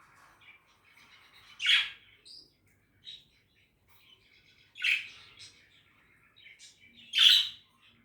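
Budgerigar chatter: soft warbling and chirps, broken by three loud, short calls spaced a few seconds apart.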